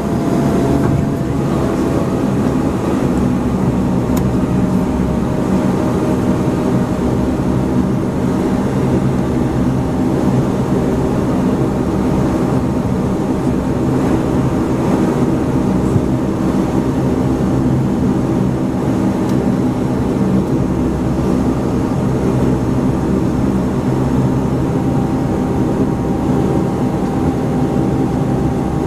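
Cabin drone of a Bombardier Q400's Pratt & Whitney PW150A turboprop engines and propellers, running steadily with an even, deep hum heard from inside the cabin.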